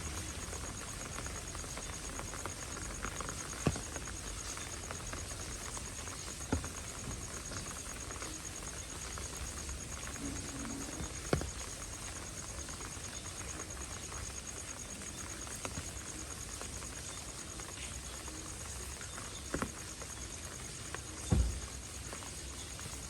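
Steady rain falling on a street, with a handful of louder single drops or taps landing several seconds apart, the last one near the end the loudest.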